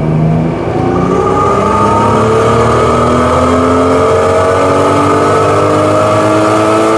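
Turbocharged Nissan RB25 straight-six with a Garrett G30-770 turbo at full throttle on a chassis dyno, its pitch rising steadily as it pulls up through the revs on a 1-bar boost map.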